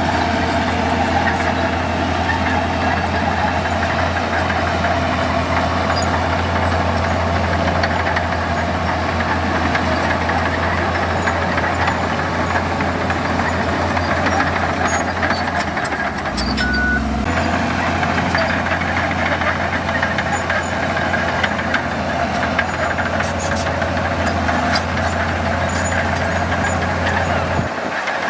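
Diesel engine of heavy construction machinery running steadily, with a deep, even hum, and a brief shift in the sound about sixteen seconds in.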